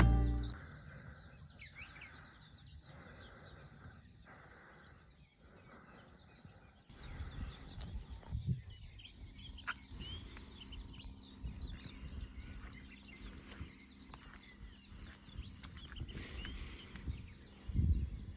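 Many small birds chirping and calling. A low rumbling noise joins about seven seconds in.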